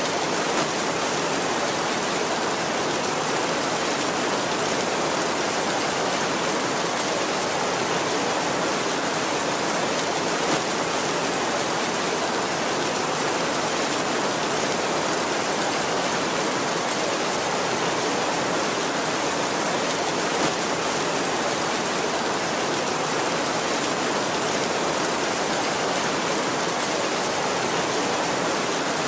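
Heavy rain drumming steadily on a tin roof: a dense, even hiss with no thunder.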